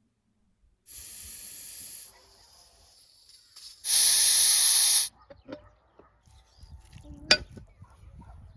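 Two bursts of hissing, each about a second long and starting and stopping abruptly, the second louder. A few light knocks follow, with one sharp click near the end.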